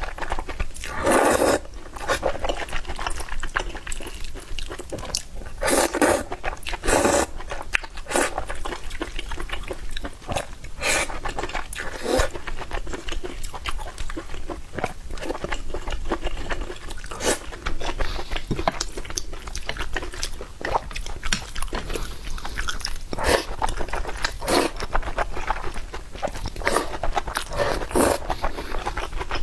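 Mukbang eating sounds: wet chewing and smacking of noodles, with repeated clicks. Longer slurps come about a second in and again around six to seven seconds in.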